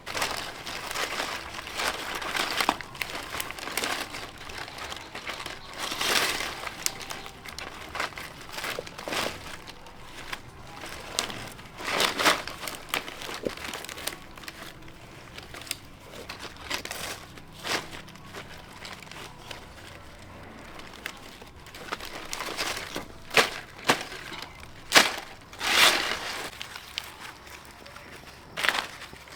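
Irregular crinkling and rustling with many sharp snaps and cracks, the loudest few near the end.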